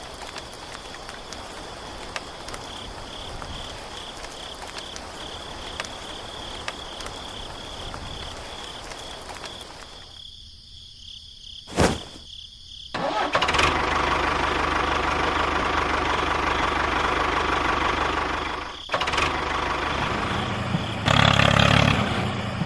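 A steady high chirring outdoor background, then after a short gap and a sharp click, a small motor starts and runs steadily and loud, dipping briefly and rising again near the end.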